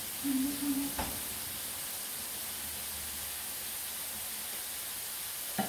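Potato chips shallow-frying in oil in a frying pan on a gas hob: a steady sizzle. A brief low tone just after the start, a click about a second in and another click near the end.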